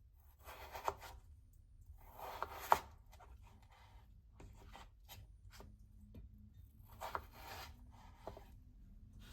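Knife working on a cutting board during food prep: a few short bouts of cutting and scraping, each ending in a sharp tap, with pauses between.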